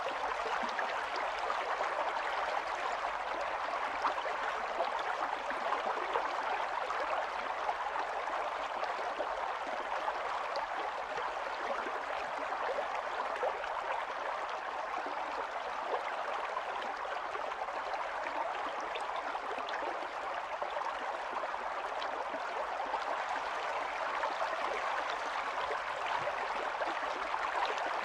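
Stream water running over stones, a steady babbling and gurgling with fine splashes throughout.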